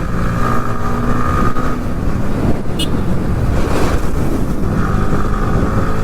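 Motorcycle engine running steadily while riding, with road and wind rumble on the rider's microphone. A brief high-pitched beep cuts in a little under three seconds in.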